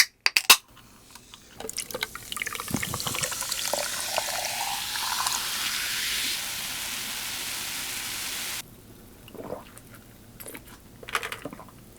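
Carbonated lemon-lime soda poured into a glass, the pour rising in pitch as the glass fills, with a fizzing hiss. The pour cuts off suddenly; a few sharp clicks come before it.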